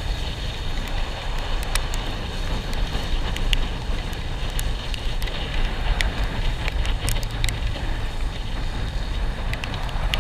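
A vehicle on the move, with a steady low rumble and wind rushing over the microphone, and scattered sharp ticks throughout.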